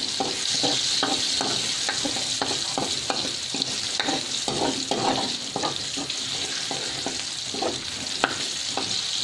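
Chopped garlic sizzling in hot oil in a wok, stirred with a metal spatula that scrapes and knocks against the pan in quick, irregular strokes over a steady frying hiss.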